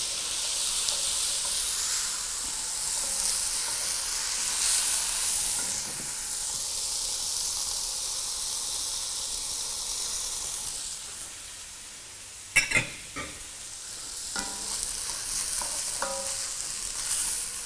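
Rice and vermicelli toasting in hot oil in a pot, sizzling steadily while being stirred with a wooden spoon. The sizzle dies down about twelve seconds in, followed by a couple of sharp knocks, then picks up again.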